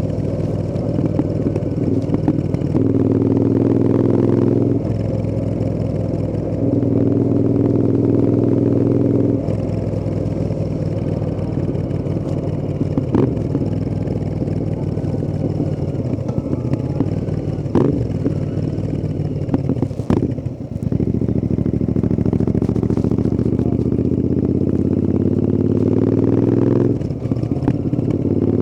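Royal Enfield Interceptor 650's 648 cc parallel-twin engine running under way, its exhaust note rising and falling with the throttle in several steady pulls. About 20 seconds in the engine note dips briefly. It then climbs in one long, gradually rising pull that drops off near the end.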